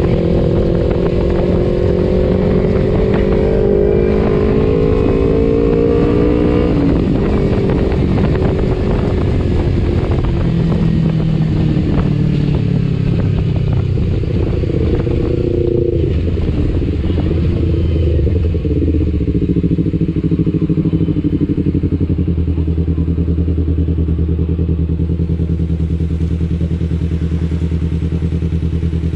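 Kawasaki Ninja 250FI parallel-twin engine through an R9 H2 aftermarket exhaust, the bike under way. The revs climb for about seven seconds, drop, and rise and fall for a while, then settle into a steady low note for the last third.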